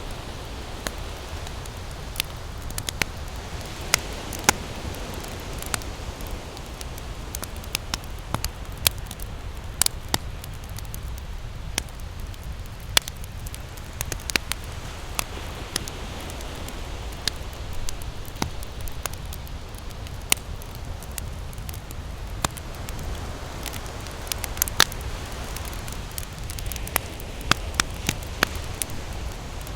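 Campfire crackling with frequent sharp pops of varying loudness, over a steady wash of ocean waves on the beach.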